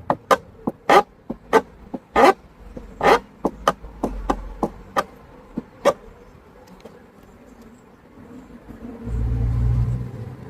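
A quick, irregular run of sharp clicks and knocks, a dozen or more over the first six seconds, then a low rumble for about a second near the end.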